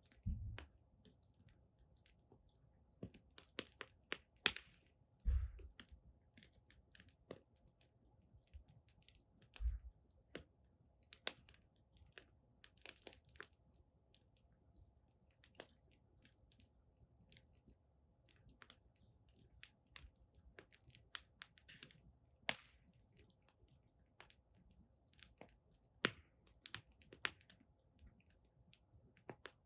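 Firewood burning in an outdoor fire pit, crackling with irregular sharp snaps and pops, and now and then a soft low thump.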